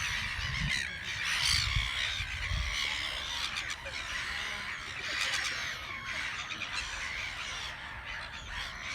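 Many gulls calling at once, a dense chorus of overlapping calls that goes on without a break.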